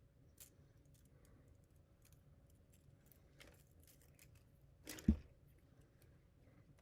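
Coiled 3D printer filament and spool being handled, faint clicks and rustles, with one sharp knock about five seconds in.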